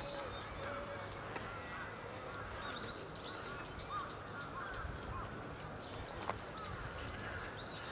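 Birds chirping and calling from the trees in a quick series of short, high chirps, with a faint click about six seconds in.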